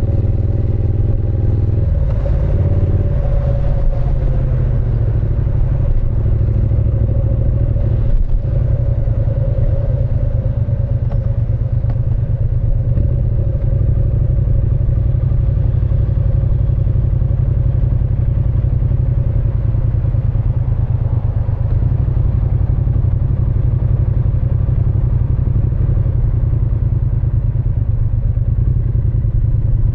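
Triumph Speed Twin 900's 900 cc parallel-twin engine and exhaust running under way. The note changes about two seconds in, then holds steady. There is a single knock about eight seconds in.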